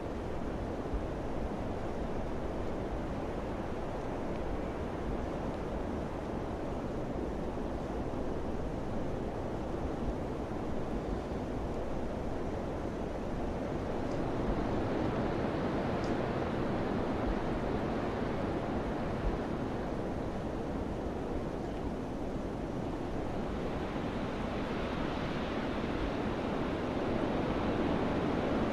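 Wind blowing in a steady rush, swelling into stronger gusts about halfway through and again near the end.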